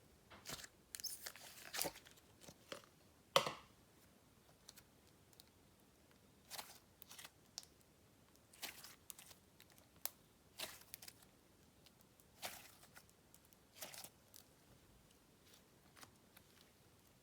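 Slime being handled and played with: scattered soft crackles and tearing sounds as it is stretched, pressed and pulled apart.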